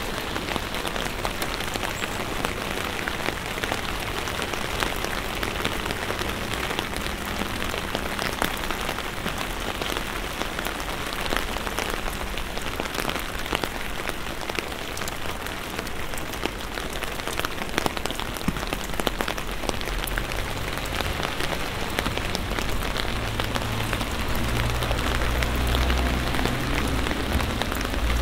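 Steady rain falling on a wet street, with many sharp, close raindrop ticks over the hiss. A low rumble builds over the last several seconds.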